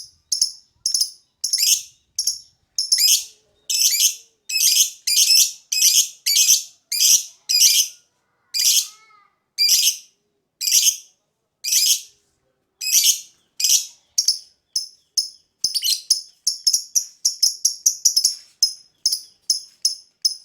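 Lovebird calling in a long run of short, shrill, high-pitched chirps, one to three a second, coming faster towards the end.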